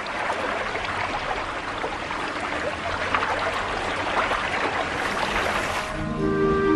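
River water rushing and splashing steadily. Music comes in near the end.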